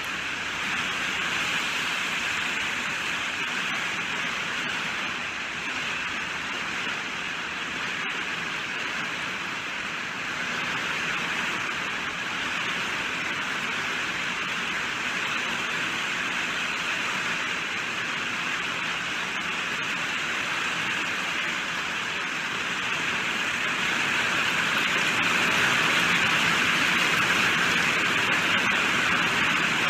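Steady rainfall, an even hiss of falling drops, getting a little louder near the end.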